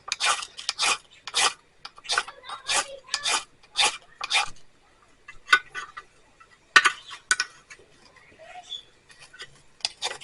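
Fire-starting striker scraped hard and fast to throw sparks into tinder: about a dozen quick rasping strikes, roughly two a second, then a few scattered strikes after a short pause.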